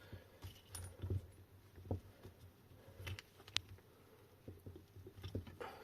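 Scattered light clicks and taps of tools and small parts being handled, with one sharper metallic click about three and a half seconds in.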